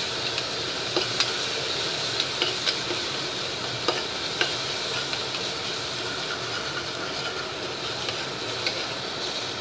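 Crushed small onions and dried red chillies sizzling steadily in hot oil in a stainless-steel pressure cooker while they are lightly sautéed. A slotted spatula stirs the mixture, scraping and clicking against the metal pot now and then.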